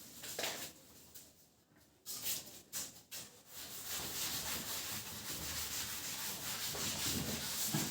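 Handwriting: a few short scratching strokes, then about four seconds of continuous scratching as a line of text is written out.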